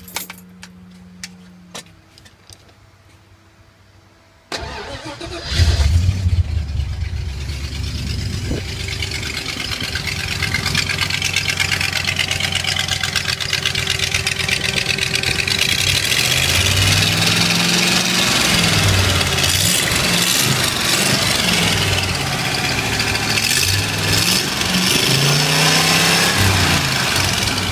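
Ford 302 small-block V8 cranked over and started about four and a half seconds in, catching within a second and settling into a steady idle. In the last ten seconds it is revved up and down several times.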